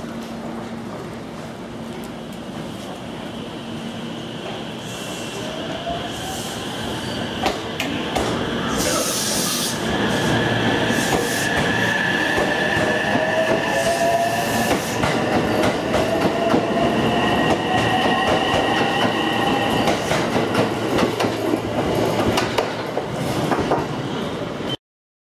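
JR West 227 series electric train pulling out and accelerating past at close range. Its traction motors' whine rises in pitch and the running noise grows louder over the first several seconds, with repeated clicks of wheels over the rail joints. The sound cuts off abruptly near the end.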